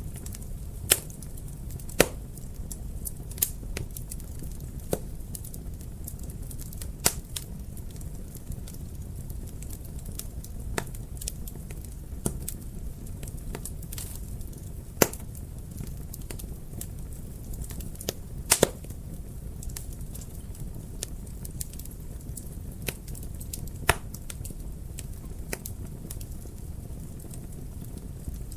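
Wood fire crackling in a fireplace: irregular sharp pops and snaps over a steady low rumble of the flames, with a louder pop every few seconds and a quick double pop about two-thirds of the way through.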